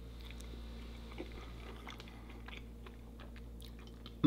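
A man chewing a mouthful of crispy pan-seared burrito, with faint soft crunches, over a steady low hum.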